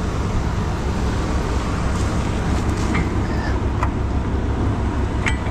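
Truck engine idling steadily, with a few light clicks and knocks.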